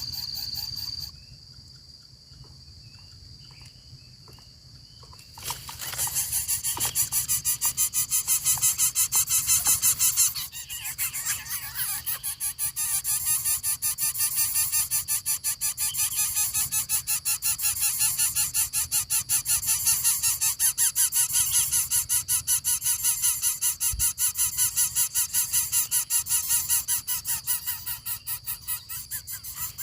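Lesser coucal nestlings giving harsh, rapidly pulsing calls, starting about five seconds in and going on steadily. Before that there is a steady high whine and a few faint chirps.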